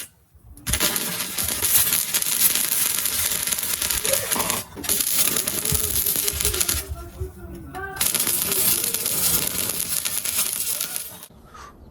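Electric arc welding crackling and sizzling in three long runs of a few seconds each, with short breaks between them.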